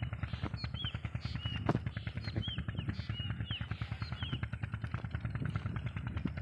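A Peter-type single-cylinder diesel engine driving an irrigation water pump, running at a steady, rapid beat. Birds chirp briefly over it several times.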